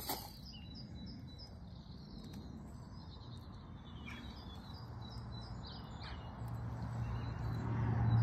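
A small bird chirping repeatedly over steady outdoor background noise, with a low hum growing louder near the end.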